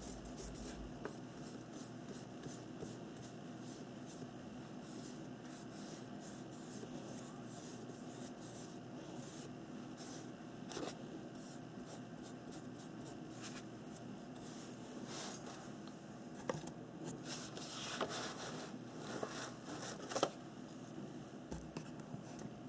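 Paint being brushed and blended over paper in short repeated scratchy strokes, louder and busier around three quarters of the way through.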